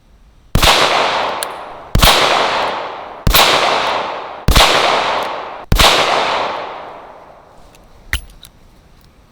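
Ruger LCR revolver in .22 WMR (.22 Magnum) firing five shots in steady succession, about one every 1.2 seconds, each shot echoing and dying away over a second or more. A single faint knock follows a couple of seconds after the last shot.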